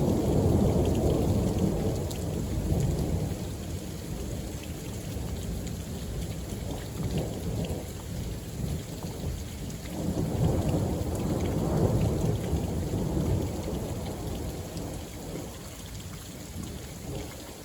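Thunder rolling over steady rain: a long rumble fading over the first few seconds, and another swelling about ten seconds in and dying away.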